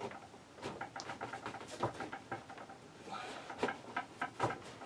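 Plastic seat trim panel being pried loose with a trim tool, creaking and clicking in quick runs of small snaps as its clips strain.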